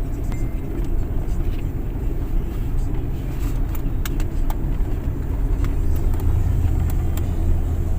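Steady road and engine rumble of a moving Nissan car, heard from inside the cabin, with a deeper hum building about two-thirds of the way through.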